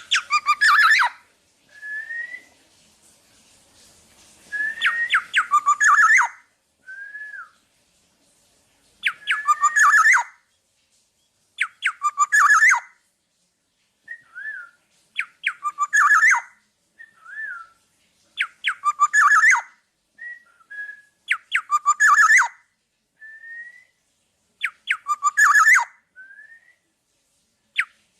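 Black-naped oriole (kepodang) singing. A short rising whistled note is followed by a dense burst of sharp sweeping notes, and the phrase repeats about every three seconds, with single whistles in some of the gaps.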